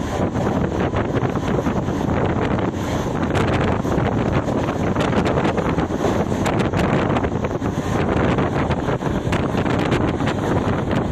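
Steady rush of a moving train running along the track, with heavy wind buffeting the microphone and many small irregular clicks and rattles.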